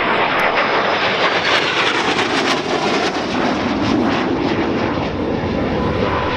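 Loud, steady jet noise from an AV-8B Harrier's Pegasus turbofan engine in flight.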